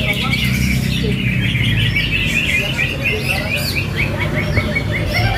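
Many caged greater green leafbirds (cucak hijau) singing at once, as at a bird-song contest, with overlapping chirps and trills and a run of quick repeated notes about midway. A steady low hum runs underneath.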